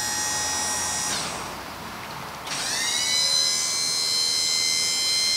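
Small electric motor whining at high speed, most likely the dump bed's electric-hydraulic hoist pump. It winds down about a second in, pauses, then spins back up about two and a half seconds in and holds a steady whine.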